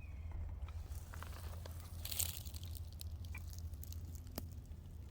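Footsteps crunching and crackling through dry debris on the floor of a dried-up swamp, with one louder crunch about two seconds in, over a steady low rumble.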